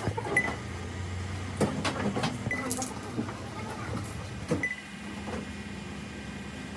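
Irregular knocks and clicks of tools or metal parts being handled, over a steady low hum. A short high tone sounds three times, about two seconds apart.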